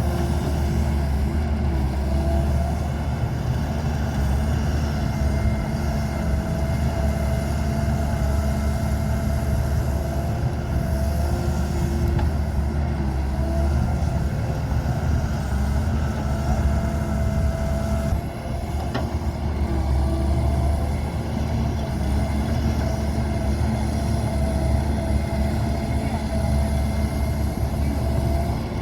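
Excavator's diesel engine running steadily at working speed while it loads mud, with a brief dip in level about two-thirds of the way through.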